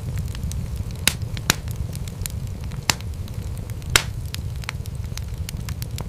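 Wood fire crackling in a fireplace: a steady low rumble of burning under frequent sharp pops and snaps, the loudest pops about one, one and a half, three and four seconds in.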